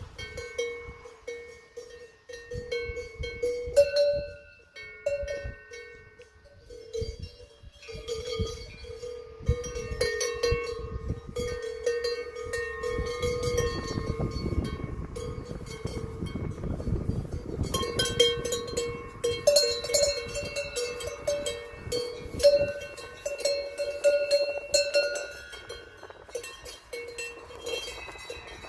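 Cowbells on grazing cows clanking irregularly, several bells at slightly different pitches ringing on and off throughout, with a low rumble underneath through the middle stretch.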